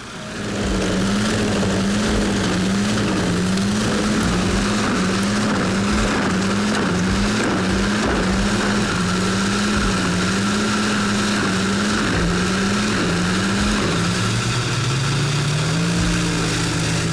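Tractor-powered wood chipper running steadily: a continuous engine-and-drum hum whose pitch wavers up and down at a regular pace, about once every two-thirds of a second. Near the end the pitch drops and holds lower.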